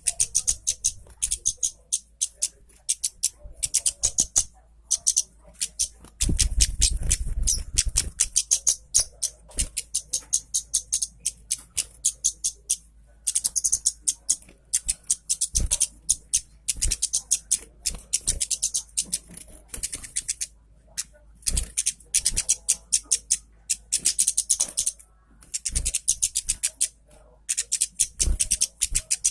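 Orange-headed thrush singing vigorously: rapid, high-pitched chirps and whistled notes in phrases of a few seconds with short breaks between them. A low rumble runs underneath for about two seconds around six seconds in.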